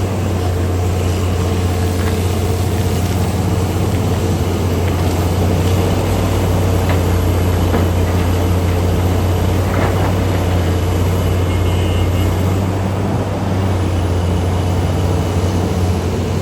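Heavy diesel engines of mining machinery running steadily, a continuous low drone.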